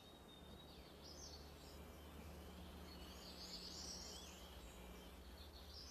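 Near silence: a low steady hum and hiss under faint high bird chirps, which come mostly in the middle seconds.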